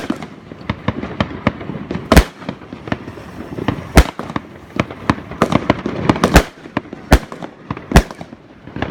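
Fireworks going off: a steady scatter of crackling pops, broken by a loud sharp bang every second or two.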